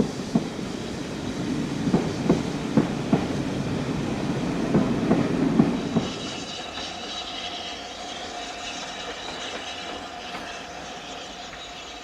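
Train wheels clacking rhythmically over rail joints as a train passes close by. After about six seconds the clatter drops away, leaving a steady thin whine from the wheels.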